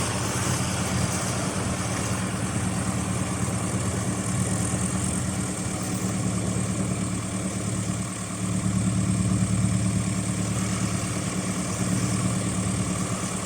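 2010 John Deere 6830 tractor's six-cylinder diesel engine idling steadily.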